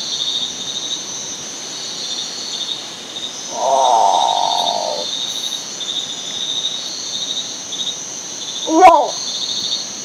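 Great potoo calling: a longer rough call about three and a half seconds in, then a short, loud call that drops in pitch near the end, over a steady chorus of insects.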